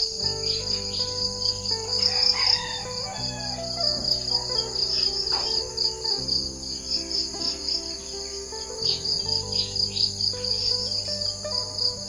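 Insects trilling in a steady, high, pulsing chorus, with scattered bird chirps, over soft background music of held chords that change every couple of seconds.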